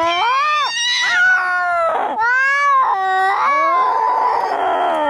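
Cats caterwauling in a fight: long, loud wailing yowls that rise and fall in pitch, overlapping at times, turning harsher and raspier near the end.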